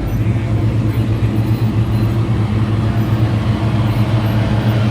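A truck engine idling steadily nearby, a constant low engine note with no revving.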